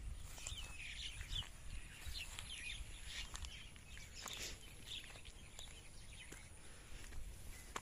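Birds chirping: short scattered calls, some quickly rising or falling in pitch, over a steady low rumble.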